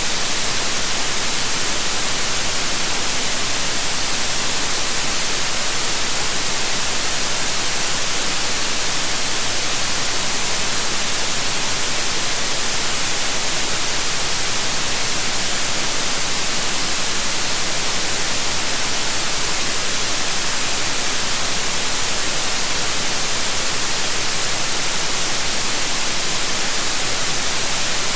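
Steady, unbroken white noise, an even hiss with no change in level.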